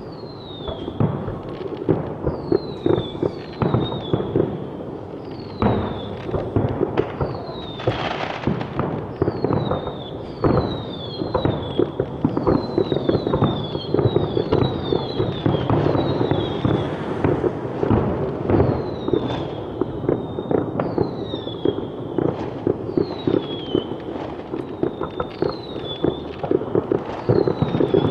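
Fireworks going off: a dense, continuous crackle of bangs and pops, with many short whistles falling slightly in pitch, about one every second.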